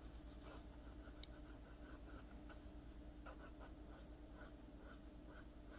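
Pencil strokes on drawing paper: quick, short, irregular scratches, faint and light, as fine hair strands are sketched in.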